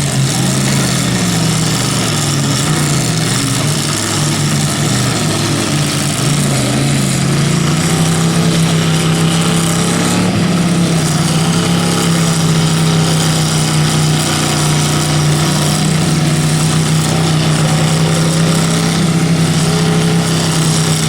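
Truck engine running loud. Its pitch wavers up and down for the first several seconds, then holds steady at a constant speed.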